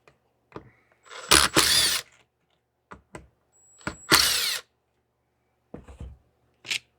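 Cordless power drill/driver run in two short bursts, its motor whine rising and falling, backing out screws to take a chainsaw apart, with a few light clicks of parts being handled between the bursts.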